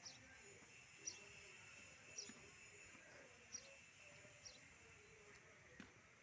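Faint, short, high chirps repeating about once a second over quiet outdoor background: a small bird calling.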